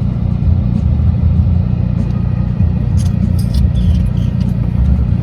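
Steady low rumble of a car on the move, heard from inside the cabin, with a few faint ticks around the middle.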